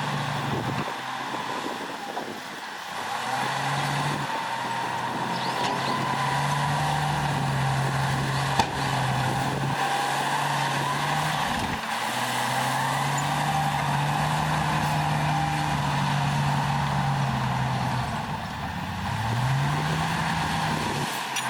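Diesel engine of a heavy earthmoving machine running under load, fading in and out with a brief rise in pitch near the end, plus a steady higher whine. A single sharp click a little before halfway.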